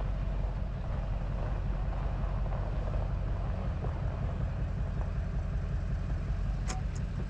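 Steady engine and road rumble of a car heard from inside the cabin while driving, with two short clicks near the end.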